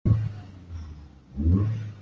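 Car engine revving in two surges, the first right at the start and the second, rising in pitch, about one and a half seconds in.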